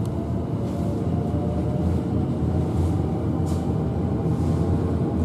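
Electric train at a station platform, a steady low rumble and hum with a few brief hisses.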